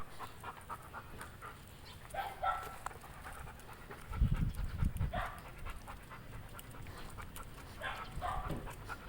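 A dog panting, with a short run of low thuds about four seconds in.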